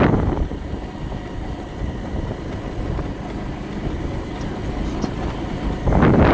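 Motorcycle under way at low speed: a steady low rumble of engine and road noise.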